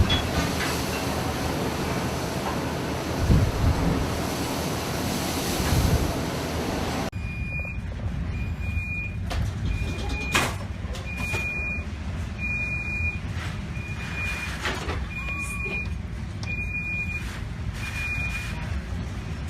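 Heavy rushing noise of wind and sea for about seven seconds, then a sudden cut to a quieter scene where a high electronic alarm beeps over and over, roughly once a second.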